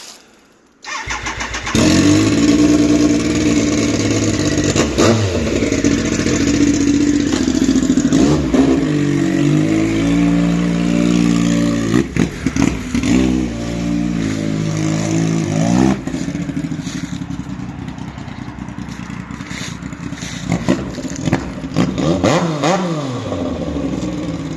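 Triumph Speed Triple's inline three-cylinder engine running with no exhaust fitted, open and unmuffled. It starts about a second in, is revved up and down several times, and settles to a lower idle a little over halfway through, with a few more blips near the end.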